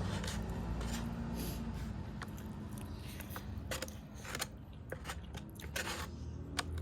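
Close-up eating sounds: biting and chewing crunchy food, with several sharp crunches in the second half over a low background rumble.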